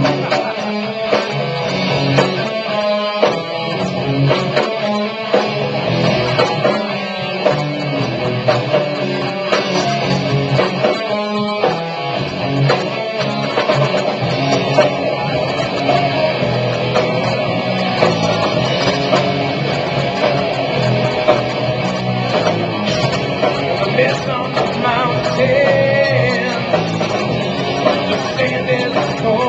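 Live rock band playing an instrumental passage led by guitar, with no vocals yet.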